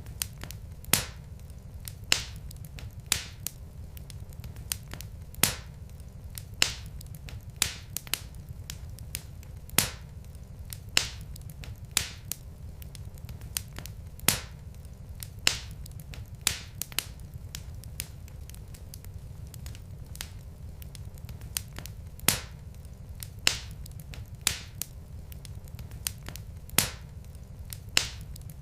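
Wood fire burning in a fireplace: sharp crackles and pops at an irregular rate of about one a second over a low steady rumble.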